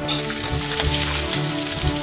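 Background music over the steady sizzle of chopped red onions frying in hot oil in a wok.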